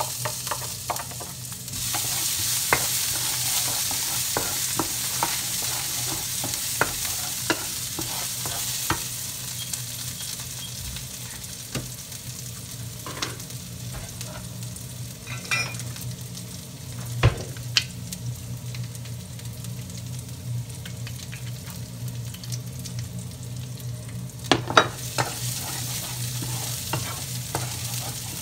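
Sliced chillies and garlic sizzling in hot oil in a frying pan, growing louder about two seconds in. A wooden spatula stirs and knocks against the pan now and then. Beneath it runs the steady hum of a kitchen range-hood extractor fan.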